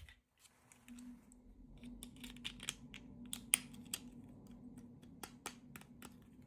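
A quick, irregular run of small sharp clicks and crinkles, typical of plastic packaging and small toy pieces being handled and opened, over a faint steady hum.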